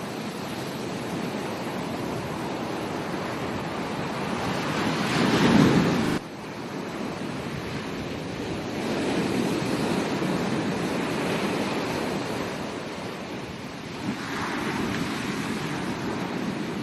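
Ocean surf washing onto a beach in repeated swells that build and fade; the loudest surge, about five seconds in, cuts off suddenly.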